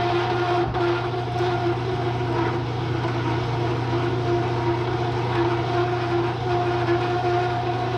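Bridgeport milling machine running with a steady hum, its motor and belt drive turning the spindle.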